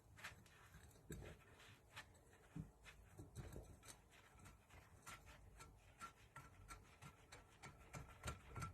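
Faint, scattered clicks, knocks and light scrapes of hand tools working on the engine, close to near silence. From about halfway through there is also a faint, regular ticking.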